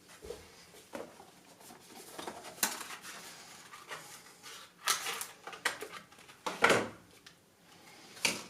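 Hands handling computer parts and their packaging: irregular light clicks, taps and rustles, the loudest knock a little under seven seconds in.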